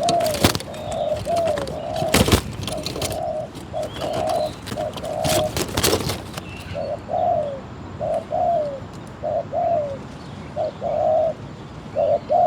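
Spotted dove cooing over and over, a run of short, low coo notes, many ending in a falling slur. A few sharp knocks sound in the first half.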